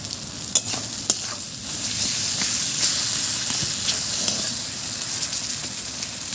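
Onion-tomato spice masala sizzling in hot oil in a pan while it is stirred with a spatula, being fried down for chicken kosha. A couple of sharp clicks come about half a second and a second in, and the sizzle grows louder about two seconds in.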